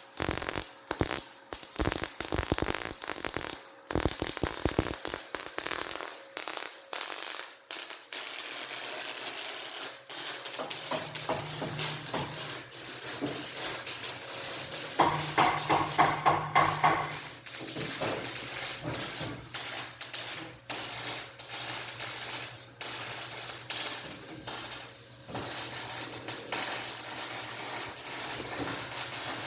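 Welder arc crackling and spitting in an uneven, irregular run while bracing is welded into a car frame, with a short pitched, pulsing sound about halfway through.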